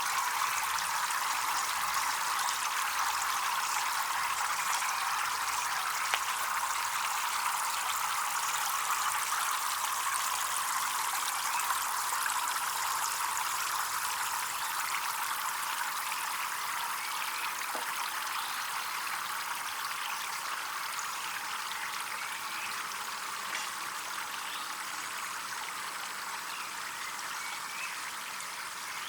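Water running steadily, like a small stream or trickle flowing over stones into a pond, with a few faint ticks.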